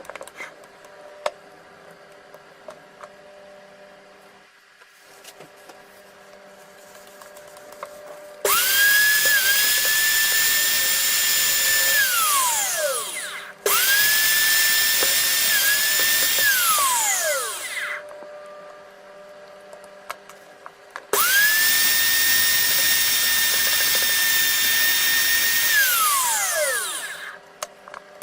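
Restored Makita 6016 electric drill switched on three times. Each time the motor spins up quickly to a steady high whine, runs for about four seconds, then winds down with falling pitch after the trigger is released. Quiet gaps with small clicks lie between the runs.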